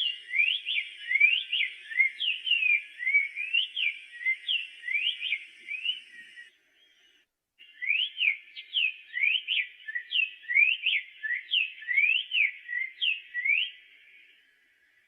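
Black-faced tanager (sanhaço-de-coleira) singing: a fast, continuous run of clear whistled notes that sweep up and down, several a second, broken by a pause of about a second in the middle and fading out near the end.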